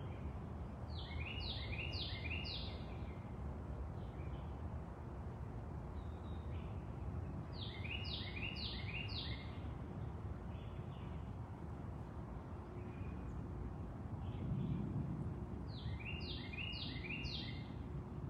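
A songbird singing the same short phrase three times, about seven seconds apart, each a quick run of four falling notes, over a steady low rumble of outdoor background noise.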